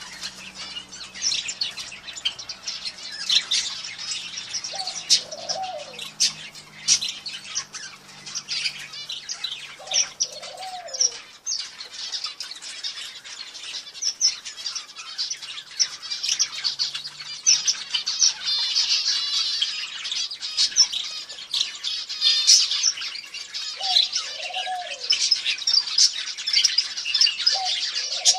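Many small birds chirping and twittering together without a break, with a lower, drawn-out call cutting through four times.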